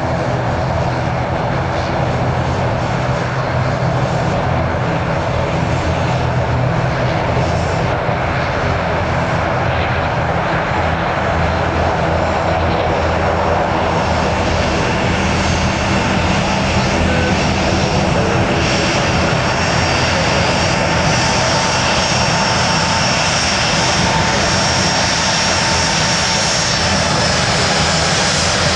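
Jet airliner engines running, a loud steady noise with a low hum underneath and faint high whining tones coming in toward the end.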